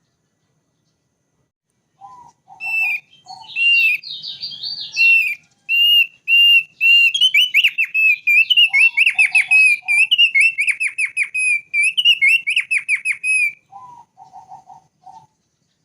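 Thick-billed white-eye singing: after about two seconds of silence, a long run of clear whistled notes at one pitch, speeding into quick down-slurred notes before stopping near the end. A lower call of about four short notes comes three times, at the start of the song, in the middle, and after it stops.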